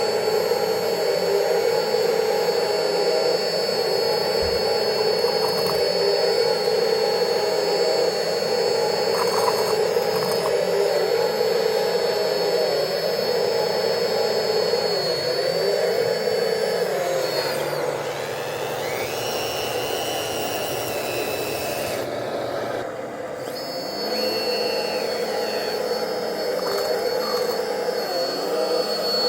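Electric hydraulic pump motors of radio-controlled model excavators whining steadily while they dig, with a higher tone that slides up and down now and then as they work.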